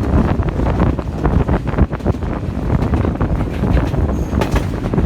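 Moving passenger train: a steady low rumble of the running train with heavy wind buffeting the microphone.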